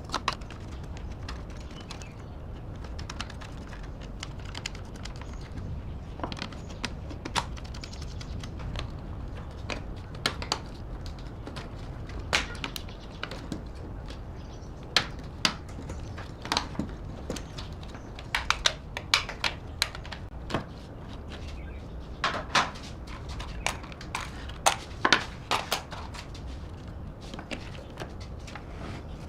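Irregular clicks and light taps of hand work in a workshop over a steady low rumble, coming in quick clusters in the second half.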